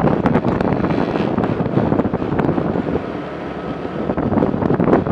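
Wind buffeting the microphone while riding along a road, with the vehicle's running noise beneath.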